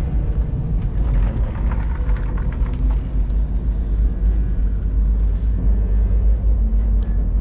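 Passenger train running on the rails: a loud, steady low rumble with light rattling and clicks over it.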